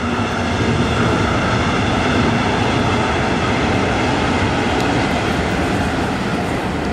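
Regional express train of red double-deck coaches crossing a steel truss railway bridge: a steady rumble of wheels on the bridge with a steady hum above it, easing off slightly near the end.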